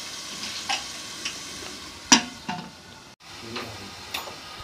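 Chopped onions, tomatoes and spices frying in oil in a metal pressure cooker, sizzling steadily, with a few sharp metal clinks against the pot, the loudest about two seconds in. The sound cuts out briefly just after three seconds, then the sizzling goes on.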